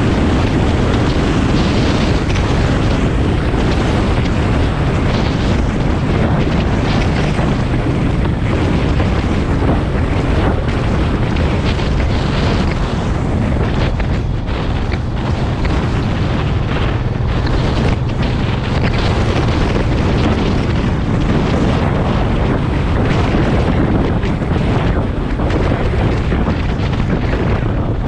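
Wind buffeting the microphone, a loud, steady rumble without a break.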